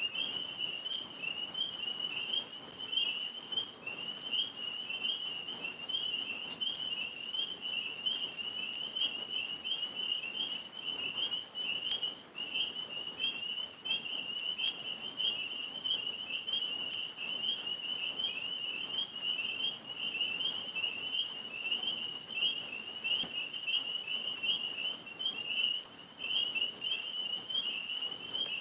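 Tree frogs calling in a dense night chorus: a continuous high-pitched trilling that never lets up.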